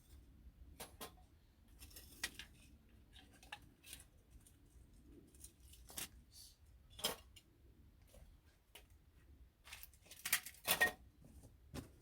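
Scattered light clicks and clinks of small hard objects being handled, irregular and a few at a time, with a louder cluster near the end.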